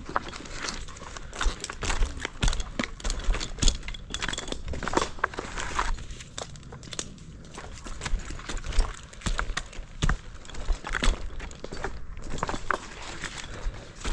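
Close rustling and handling noise with many irregular clicks and knocks, like gear being handled and footsteps, over a steady low rumble.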